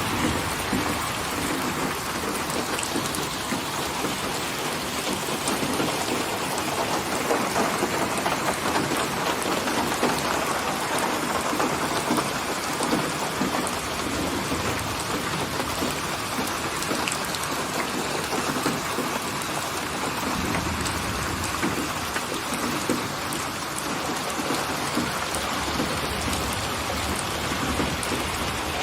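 Steady rain falling, with a low rumble of thunder for a few seconds about two-thirds of the way through.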